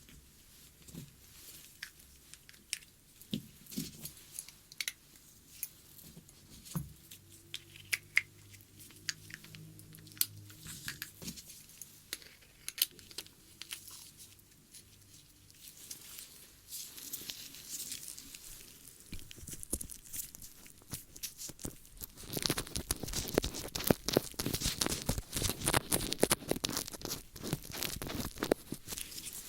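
Close-up ear-cleaning ASMR sounds: tools scratching and crackling against an ear, at first as scattered ticks and crackles, then about two-thirds of the way in a dense, continuous scraping crackle.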